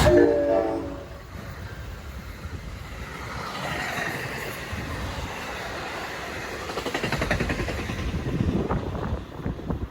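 A train passing on the tracks with a steady rush of noise. A rhythmic clatter of wheels comes in about seven seconds in.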